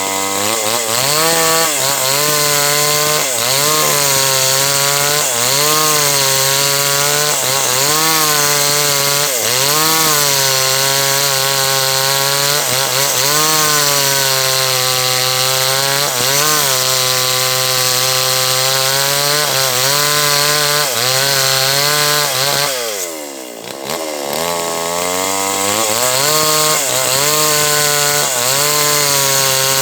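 Small two-stroke H&L Pro 5800 chainsaw running at high revs while cutting through a large teak log, its pitch wavering up and down as the chain bites and eases off. About 23 seconds in the revs drop briefly, then pick back up.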